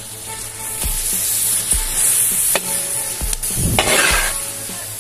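Sliced tomatoes and onions sizzling in hot oil in a large metal pot, stirred with a long-handled slotted metal ladle that scrapes and knocks against the pot. About three and a half seconds in the sizzling and scraping grow louder for a moment as the ladle turns the food over.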